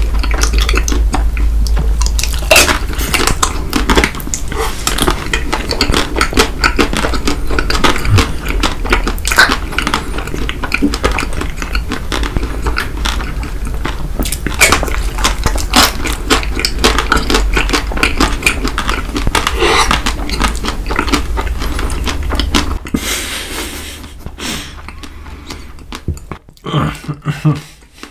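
Close-miked chewing of chocolate bars with nuts and caramel: irregular crunches and wet mouth clicks. A steady low hum underneath cuts out near the end.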